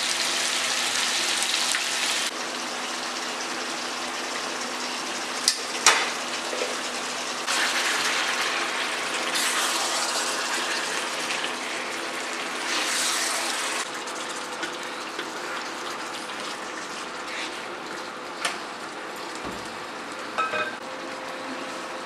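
Marinated chicken pieces sizzling in hot oil in a pan, the sizzle swelling louder a few times, with a few sharp clicks of a spatula against the pan over a faint steady hum.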